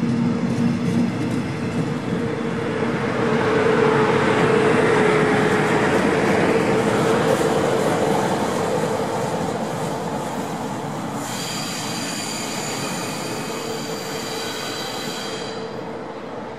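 Double-deck regional train with a DB class 111 electric locomotive rolling past on the rails and pulling away, over a steady hum. The rolling noise peaks a few seconds in and then fades. From about two thirds of the way through, high-pitched wheel squeal sounds as the train takes the curve.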